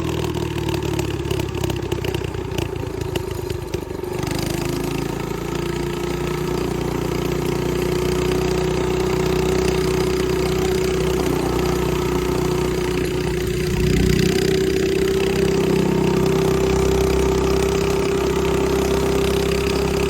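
Mini bike's 212cc single-cylinder engine running steadily, its note slowly creeping up in pitch. It gets a little louder about two-thirds of the way through.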